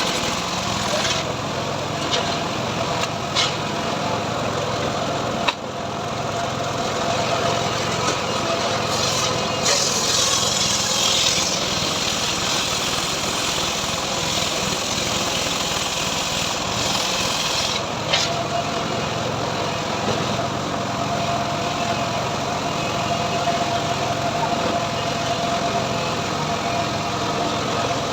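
Homemade srekel sawmill running steadily while sawing teak into boards, its engine note carrying a steady whine, with a brighter hiss for a couple of seconds about ten seconds in.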